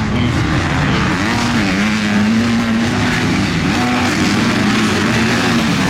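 Several 250cc MX2 motocross bikes racing, their engines overlapping as they rev up and down, with one bike held high for a couple of seconds in the middle.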